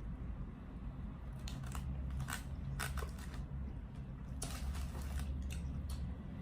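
Close-up crunching and chewing of crispy fried chicken in a burger: a series of sharp, irregular crunches over a steady low hum.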